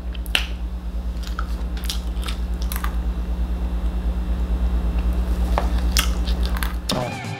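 A person chewing and crunching a mouthful of crumbly food, with several sharp clicks from metal chopsticks working in a plastic container, over a steady low hum.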